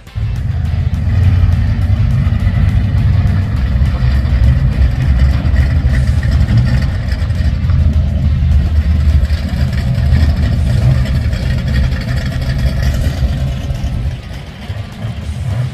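Loud car engines rumbling at low revs through open, lumpy exhausts, with a deep fluttering pulse that swells and eases a little near the end.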